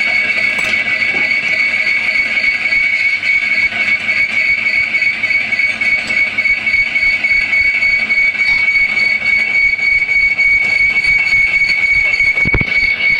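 A power tool grinding or cutting metal: a loud, steady, high-pitched metallic whine over a hiss, which stops suddenly near the end.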